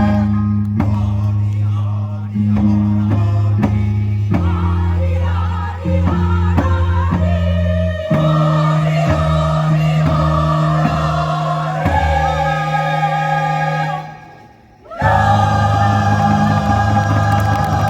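A choir singing with instrumental accompaniment. The music drops away briefly about fourteen seconds in, then comes back in full.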